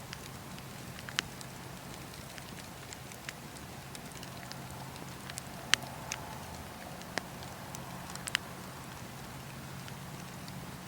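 Wood campfire crackling: sharp, irregular pops and snaps from the burning wood over a steady low background of the fire.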